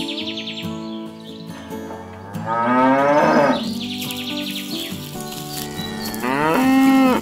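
Two cow moos, one about two and a half seconds in and a shorter one near the end, over steady background music with bird chirps.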